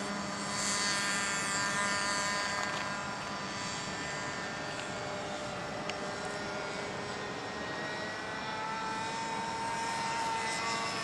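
Radio-controlled model airplane motor running in flight: a steady, whining drone whose pitch shifts a little near the end.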